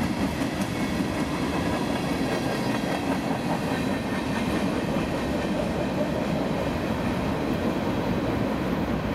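Freight train's hopper cars rolling slowly past, a steady rumble with the wheels clicking over the rail joints.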